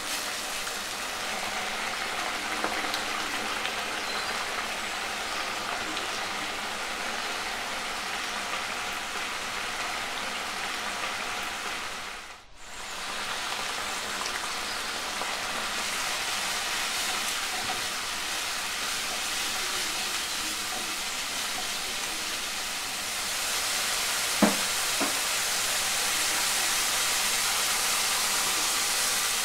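Masala sizzling in hot oil in a nonstick kadhai, a steady frying hiss. It dips briefly about halfway and turns brighter and a little louder over the last few seconds, with one sharp tap shortly before the end.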